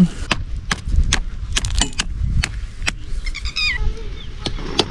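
Soil and stones being dug or shovelled, heard as an irregular run of sharp knocks and scrapes, several a second. A short, wavering, high-pitched call comes about three and a half seconds in.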